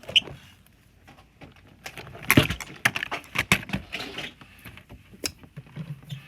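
Small toys being handled and moved about: irregular clicks, knocks and rustling, busiest in the middle.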